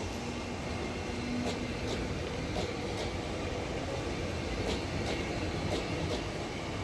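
Rake of NMG goods coaches rolling past: a steady rumble of wheels on rail, with sharp clicks, often in pairs, every second or so as the wheels cross the rail joints.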